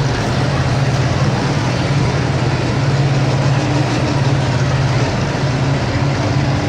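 Diesel engine of a pro stock pulling tractor running loud and steady.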